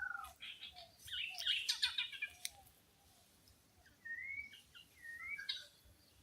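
Red junglefowl hen and chicks calling: a dense burst of high chirps and peeps about a second in, with short low clucks underneath, then a few whistled calls near the end.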